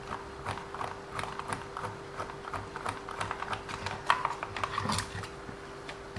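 Irregular small clicks and taps of hands working the WLToys 144001 RC car's plastic and metal drivetrain parts, over a faint steady hum.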